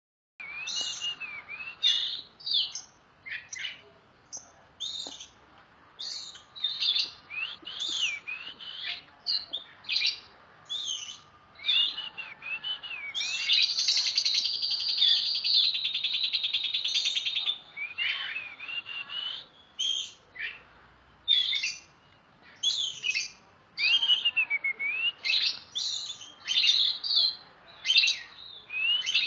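Oriental magpie-robin (kacer) singing loudly: a run of varied, swooping whistled phrases, broken about halfway through by a fast, buzzy rattling trill that lasts about four seconds.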